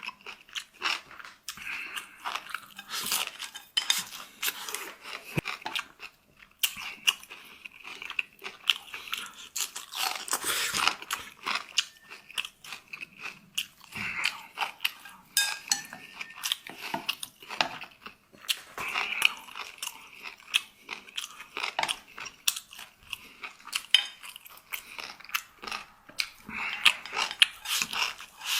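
A person chewing and crunching food close to the microphone, with many irregular crisp crunches.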